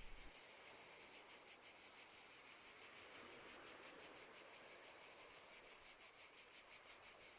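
Crickets chirping faintly in a steady, evenly pulsing high-pitched trill, part of a nature-sound background.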